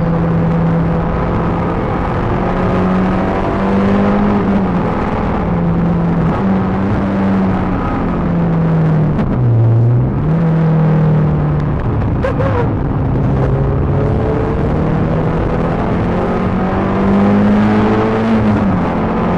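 Peugeot 306 GTi-6's 2.0-litre four-cylinder engine driven hard on a track: the engine note climbs under acceleration and drops back several times as the driver shifts gears and lifts. About halfway through it falls to a low pitch, as for slowing into a corner, then climbs again.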